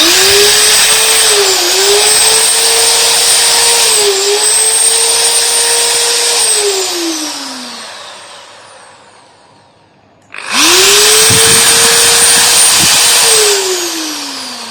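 Deli 13 mm 1050 W impact drill running with no load: the motor spins up at once to a steady high whine, dips briefly twice, then is released and winds down with a falling pitch. About ten seconds in it spins up again, runs a few seconds and winds down near the end.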